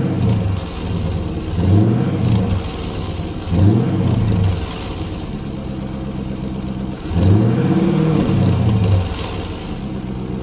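Dodge Durango R/T's 5.7-litre HEMI V8 through a Corsa Sport catback exhaust, revved in quick blips while standing still, settling back to a steady idle between. Three short revs come in the first half, then a longer rev a little after seven seconds in.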